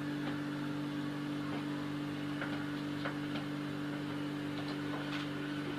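A steady low hum, like an electrical appliance or small motor, with a few faint ticks.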